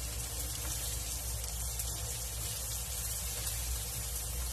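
Chopped onion, garlic and ginger sizzling in hot oil in a nonstick frying pan while being stirred with a wooden spatula: a steady hiss.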